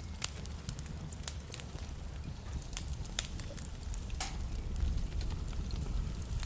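Wood fire in a fireplace crackling: irregular sharp pops and snaps of burning logs, one stronger pop about two-thirds of the way through, over a steady low rumble of the flames.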